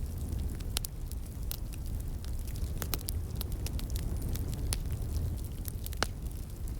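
Wood fire crackling, with irregular sharp pops, the loudest about six seconds in, over a steady low rumble from the flowing stream in the background.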